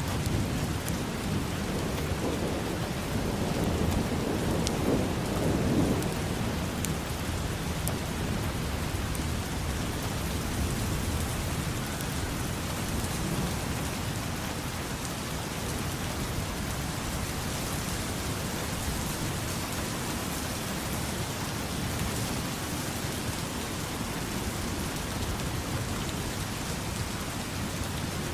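Steady rain falling, with scattered drops ticking, and a low rumble of thunder swelling about four to six seconds in.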